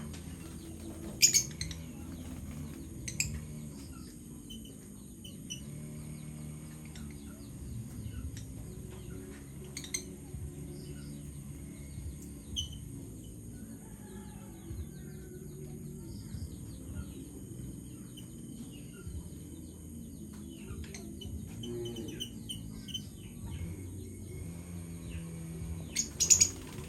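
Small pet parrots chirping in short, sharp calls scattered through, loudest about a second in and again near the end, over soft background music.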